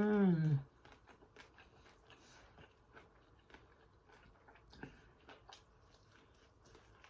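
A short, falling "mmm" of pleasure, then close-up chewing with many small wet lip-smacking clicks as fried food is eaten.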